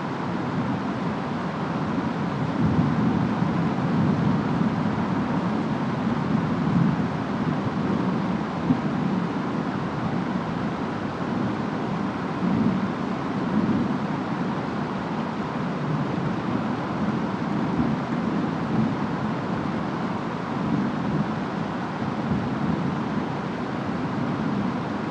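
Distant storm ambience: steady rain and wind with a low rumble that swells and eases every few seconds.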